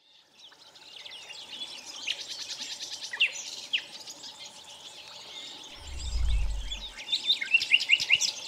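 Several songbirds chirping and singing, fading in from silence, with quick runs of high chirps near the end. A brief low rumble about six seconds in.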